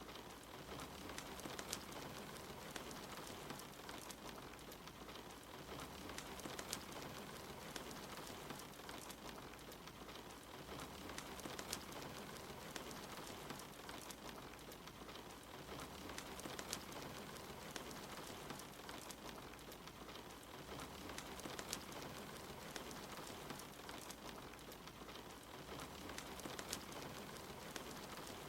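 Steady rain falling, mixed with a wood fire crackling, with frequent small pops and snaps scattered through it.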